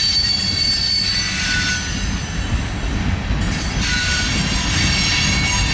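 Freight cars of a manifest train rolling past: a steady low rumble of steel wheels on rail with several high-pitched wheel squeals over it. The squeal fades briefly about three and a half seconds in and then returns.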